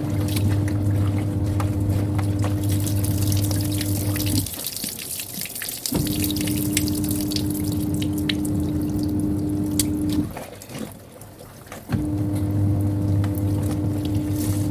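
Semi-automatic twin-tub washing machine's wash motor humming as it churns the clothes in water, stopping briefly twice and starting again, in the stop-start rhythm of its wash-tub agitation; water sloshes and drips throughout.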